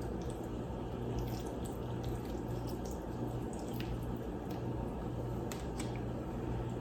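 Raw salmon being handled and cut into pieces: faint wet squishes and small scattered clicks over a steady low hum.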